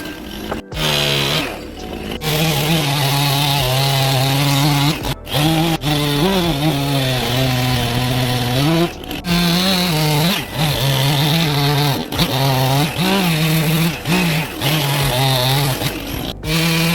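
Two-stroke chainsaw running at high revs while carving wood, its pitch dipping and recovering again and again as the chain bites into the cut.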